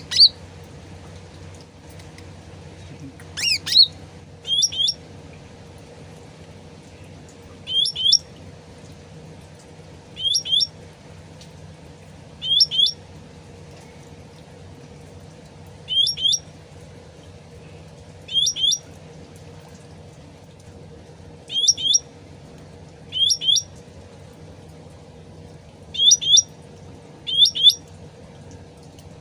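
Recorded calls of a cucak rante (cucak ranting) songbird: a short, high, two-note swooping chirp repeated about every two to three seconds, over a steady low trickle of water.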